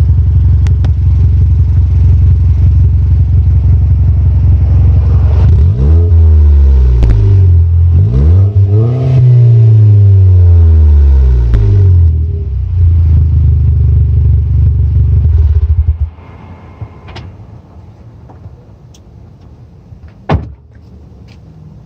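Exhaust of a 2012 Chevy Sonic's 1.4-litre turbocharged four-cylinder through an aftermarket DNA Motorsports resonator-delete muffler with a 4-inch tip. It idles steadily, is revved a couple of times with the pitch climbing and falling, settles back to idle, then cuts off about 16 seconds in.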